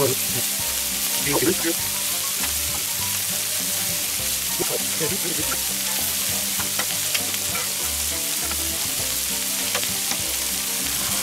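Burger patties, onions and vegetable slices frying on an oiled steel fire plate: a steady sizzle with scattered short clicks.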